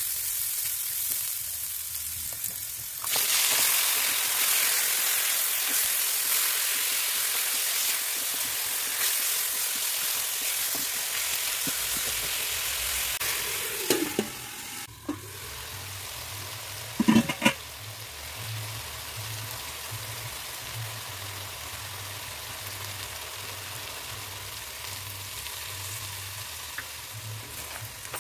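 Oil sizzling in a metal wok as shallots, garlic, ginger and then chicken pieces fry and are stirred with a spatula. The sizzle gets louder about three seconds in and softens around halfway, with a few sharp knocks against the pan near the middle.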